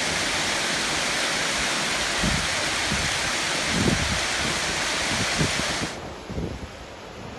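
Hurricane storm wind and heavy rain: a loud, steady hiss with gusts thumping on the microphone. About six seconds in the hiss cuts off suddenly, leaving a quieter, lower wind rumble with gusts buffeting the microphone.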